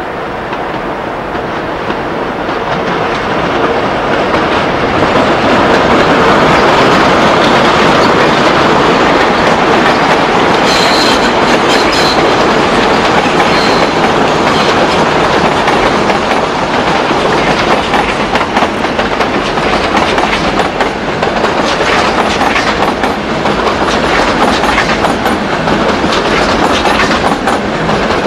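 ICE high-speed train passing close: the rumble of the wheels builds over the first few seconds and then holds, with the wheels clicking over rail joints and points. There are a few brief high wheel squeals a little over a third of the way through.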